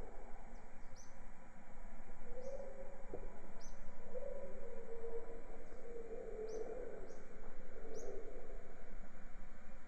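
Birds calling in a jungle soundscape: short high chirps repeating about once a second over lower drawn-out calls, with a steady hiss of background noise.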